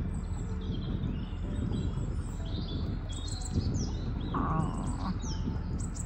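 Several songbirds singing, with many short overlapping chirps and whistles, over the low steady running of the narrowboat's engine.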